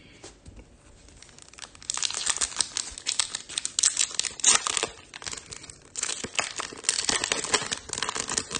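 Trading-card pack wrapper being crinkled and torn open, in two stretches of crackling about three seconds each.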